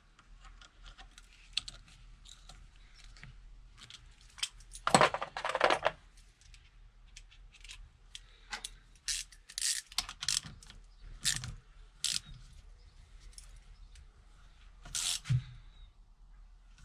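Small metal parts and hand tools being handled on a workbench: scattered clicks and clinks, with a louder clatter about five seconds in and a few sharp knocks later.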